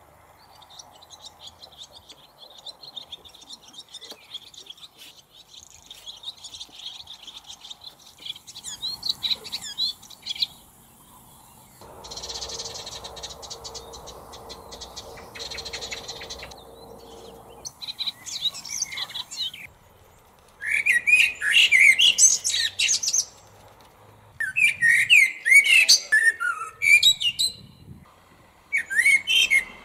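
Small birds chirping and twittering, faint at first, then in loud clusters of quick chirps from about two-thirds of the way through. For a few seconds in the middle a steadier noise with a low hum runs under them.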